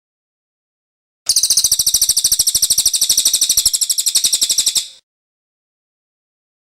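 Cililin bird singing one fast, high trill of rapidly repeated, evenly spaced notes. It starts just over a second in and lasts about three and a half seconds.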